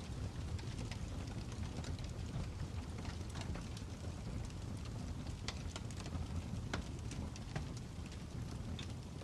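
Fireplace crackling: a steady low rush of burning with irregular sharp pops and snaps of wood, several a second.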